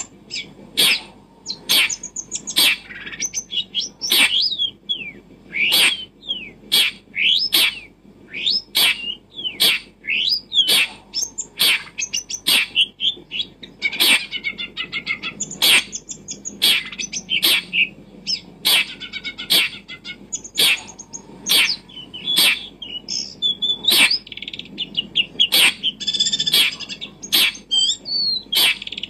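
Birds chirping: many short, sharp calls at about one or two a second, mixed with quick up-and-down chirps.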